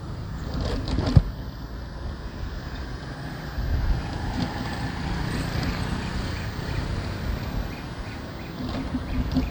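Traffic and wind noise heard from a moving motorbike on city streets, a steady rumble with a sharp knock about a second in.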